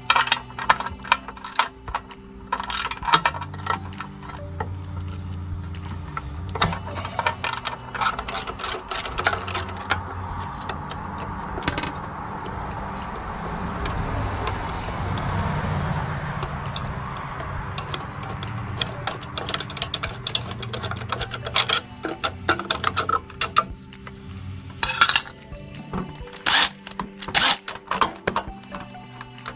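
Background music with repeated clicking and clattering of hand tools working on the mower engine, the clicks coming in quick runs.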